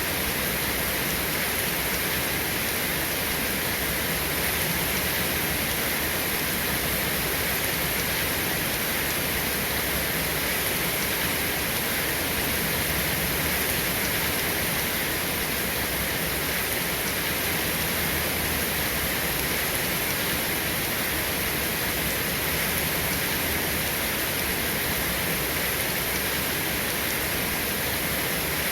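Steady rain falling, an even hiss that holds unchanged throughout with no thunder or separate drops standing out.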